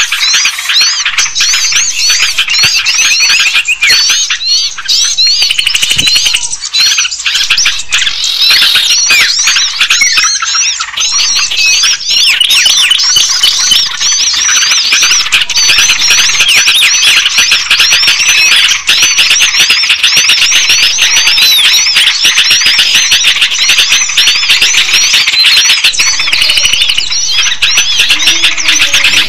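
Small-bird lure recording: a loud, unbroken chorus of many small songbirds chirping and twittering rapidly over one another, high-pitched, the kind of call played to draw small birds in.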